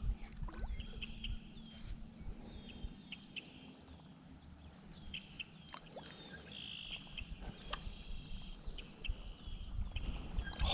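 Several birds chirping and calling, short high notes repeating throughout, over a low steady rumble.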